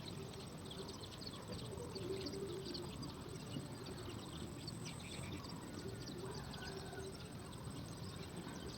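Small birds at a nest giving many faint, short high chirps and ticks in quick irregular succession, over steady background noise with a thin, steady high tone.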